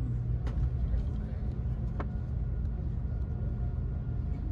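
Steady low engine drone heard from inside a moving bus, with a couple of brief clicks.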